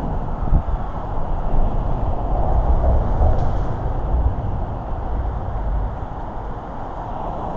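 Wind rumbling on the microphone of a moving bicycle, with bicycle tyre noise. It is a steady, fluctuating low rumble with no distinct events.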